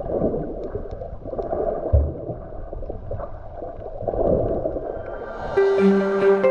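Muffled water sloshing and gurgling, with one low thump about two seconds in. Plucked-string music comes in near the end.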